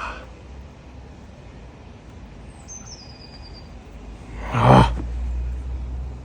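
A bird gives a short chirp that falls in pitch about three seconds in. About four and a half seconds in comes a brief loud clatter, the loudest sound, followed by a low rumble.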